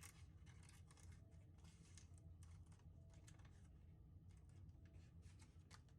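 Faint crinkling and ticking of a chocolate bar's wrapper being opened by hand, a string of small irregular rustles and clicks over a low steady hum.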